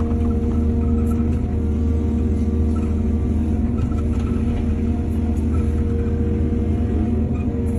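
Heavy diesel earthmoving machinery running steadily: a deep, even engine drone with a constant hum and no revving.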